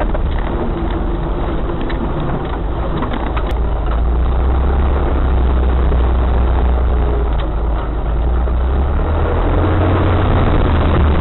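Off-road vehicle engine running with a steady low rumble, growing a little louder about four seconds in.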